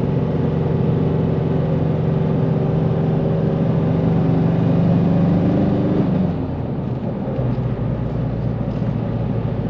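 Nissan Navara's engine pulling steadily under load while towing a heavy caravan uphill, over tyre and road noise. Its note rises slowly, then falls away about six seconds in.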